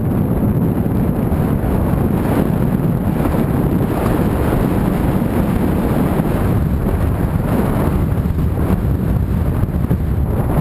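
Steady rumble of a car on the move: engine, tyre and wind noise running on without a break, heaviest in the low end.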